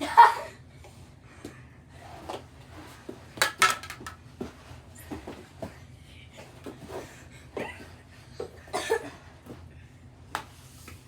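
Mini hockey sticks and a small ball clacking and knocking during a knee hockey game: irregular sharp clicks, a few louder hits among softer taps.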